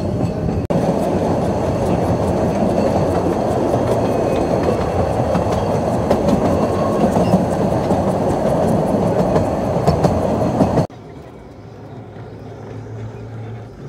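Running noise of a narrow-gauge steam train heard from inside a moving carriage: a steady loud rush of wheels on the rails with scattered clicks. It cuts off suddenly near the end, leaving a much quieter low hum.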